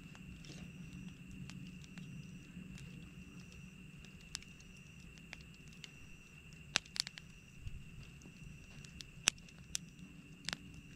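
Campfire wood crackling, with sharp pops at irregular intervals that are loudest in the second half, over a low steady background and a faint steady high tone.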